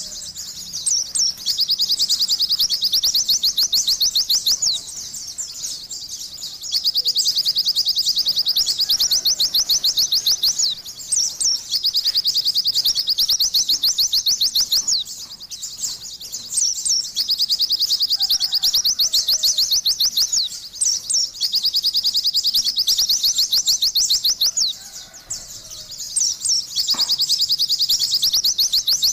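White-eye (pleci) singing in full voice: long, rapid, high-pitched chirping trills that run for several seconds each, broken by short pauses.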